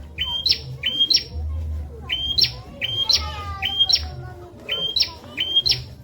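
A prenjak (prinia) singing its masteran song: loud, sharp calls repeated about twice a second, each a short steady note that jumps up to a higher one. There is a brief twitter of falling notes in the middle, over a low hum.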